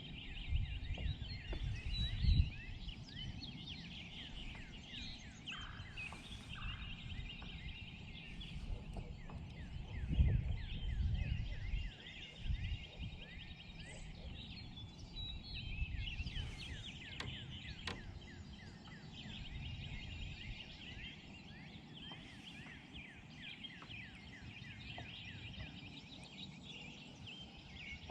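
Many birds calling and trilling at once, a steady chorus of quick high chirps. Low rumbles come near the start and again about ten seconds in.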